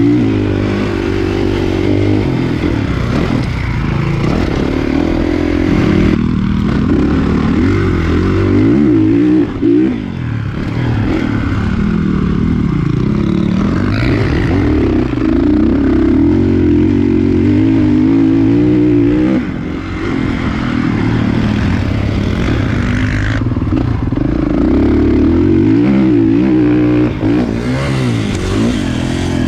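Kawasaki KX450 motocross bike's four-stroke single-cylinder engine being ridden hard, its pitch rising and falling continually as the throttle is worked, with brief drops where the throttle is closed, about a third of the way in, two thirds of the way in and near the end.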